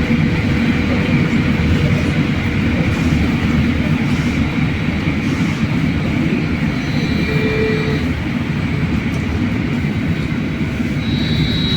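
Steady rumble and road noise inside a moving BKM-43300D trolleybus. A high electric whine sets in near the end.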